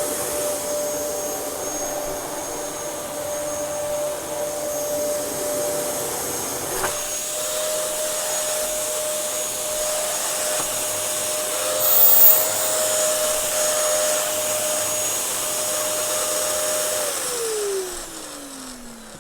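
Dyson DC07 bagless upright vacuum cleaner running steadily, a constant whine over the rush of air. About 17 seconds in the motor spins down, its whine falling in pitch as it slows.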